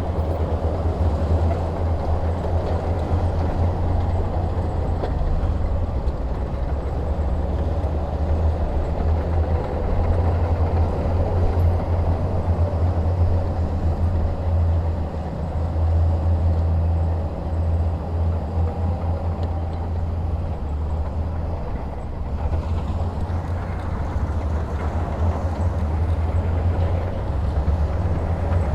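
Heavy diesel engine running with a deep, steady low rumble, as a bulldozer or dump truck works in sand; it eases slightly about two-thirds of the way through.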